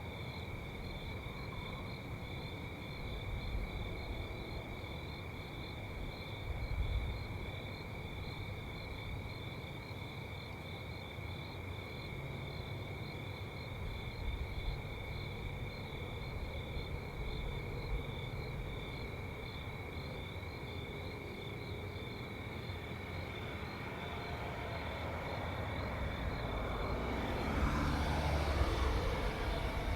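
Crickets chirping in a steady, fast pulse over a low rumble. In the last several seconds a road vehicle approaches and grows louder.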